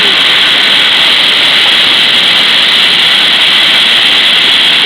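Waterfall close by: a loud, steady rush of falling water that does not change.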